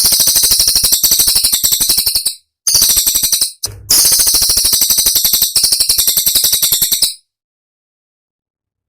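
Cililin songbird singing a rapid, sharp, high-pitched rattle of notes, the fast 'tembakan' phrase, in three bursts of a few seconds with short breaks, then stopping about seven seconds in.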